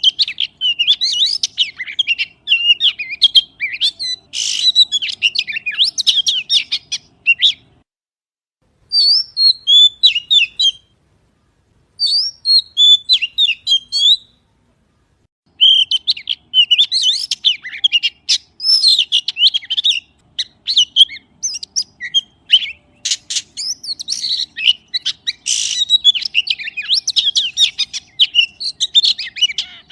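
Magpie singing: long runs of rapid, varied high chirps and whistles, broken by three short pauses.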